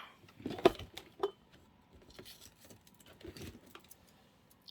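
Craft supplies being handled and sorted on a work desk: scattered light clicks and clinks with soft rustling, the sharpest click a little under a second in.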